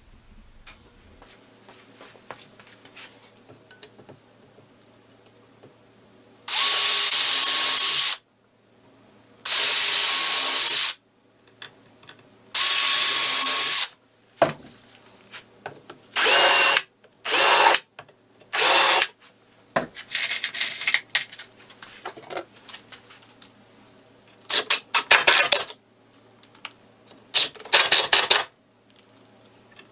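Cordless drill running in repeated bursts: three steady whining runs of about a second and a half each, then shorter runs, then choppier, rattling ones near the end.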